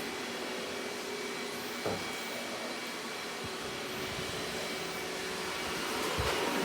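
Robot vacuum running steadily, a continuous whirring hum of its suction fan and brushes, with one light knock about two seconds in.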